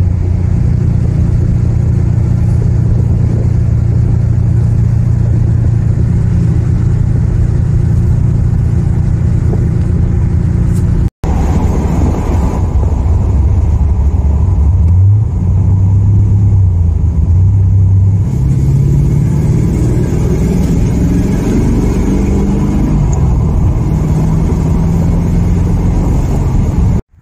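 1972 Corvette's LT-1 small-block V8 running under way, heard from inside the car. It drops out for an instant just after ten seconds, and in the second half the revs rise and fall a few times.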